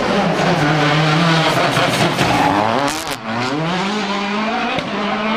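Rally car engine at full stage pace: it holds steady revs, climbs in pitch under acceleration, then lifts off with a sudden drop and a few sharp cracks about three seconds in, and climbs again as it pulls away.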